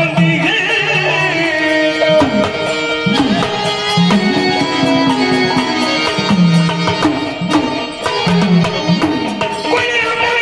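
Instrumental interlude of Marathi folk devotional music: tabla drumming with strokes on the bass drum that bend in pitch, under a sustained melody line.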